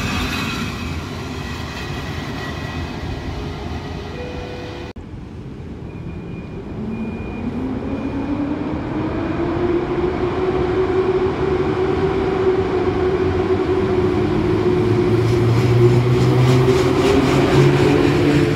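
PKP Intercity passenger coaches rolling past on the rails. After a sudden cut, a second Intercity train comes in and passes close by: a hum rises in pitch, then holds steady and grows louder toward the end.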